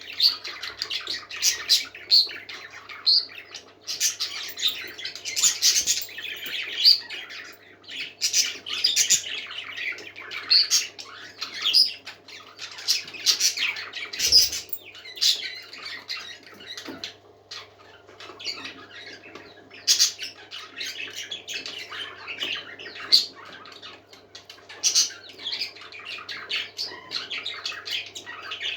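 Several pet parakeets chattering and warbling nonstop, with quick chirps and sharp squawks, over a faint steady hum.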